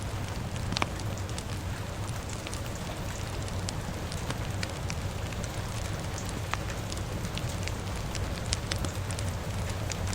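Crackling fire with steady rain: a constant hiss and low rumble, with frequent sharp, irregular pops and crackles.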